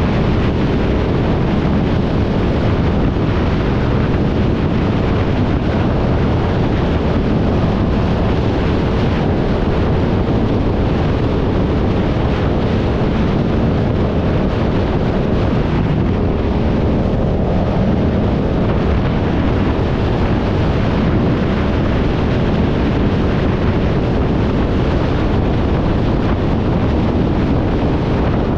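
Steady wind rush on the microphone over the engine and road noise of a motorcycle being ridden.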